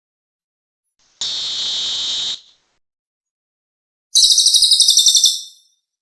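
Recorded calls of the cililin bird used as a bird-lure track: a high, hissing note of about a second, then about three seconds later a louder, buzzy trill of rapid pulses, about a dozen a second, that fades out.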